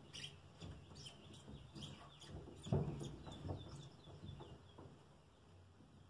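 Birds chirping in quick, repeated, falling notes, with a few soft knocks and clicks as the washing machine's inlet hose coupling is handled and screwed on. The loudest knock comes about three seconds in.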